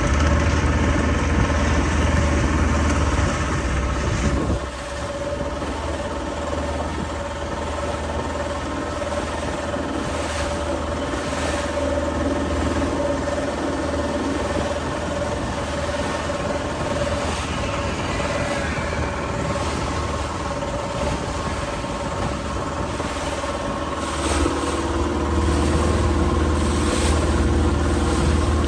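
Motorboat engine running steadily. It eases off about four and a half seconds in and picks up again near the end.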